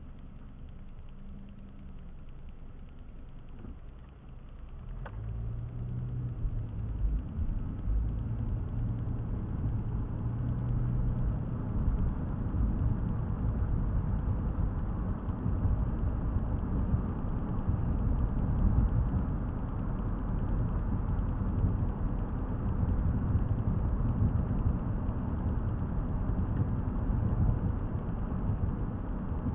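Car engine and road noise heard from inside the cabin: quiet at first, then growing louder about four seconds in and settling into a steady low rumble of driving.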